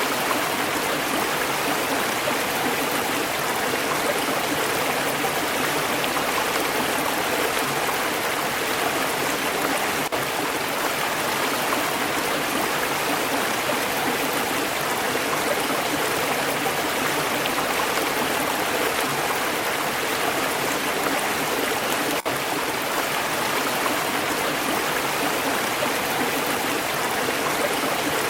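Stream water flowing steadily over rocks, an even, continuous rushing and babbling.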